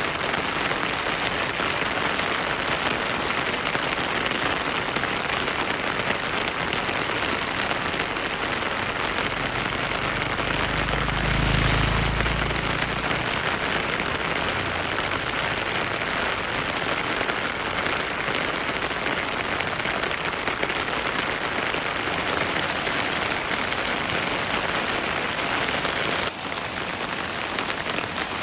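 Heavy rain falling steadily in a forest, a dense even hiss. A brief low rumble swells and fades about halfway through.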